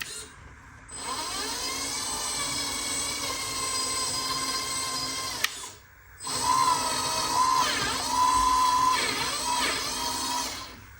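Small electric motor and gear whine from a 1/14 scale RC dump truck. It starts about a second in, stops briefly about six seconds in, then runs again, with its pitch dipping and rising twice near the end.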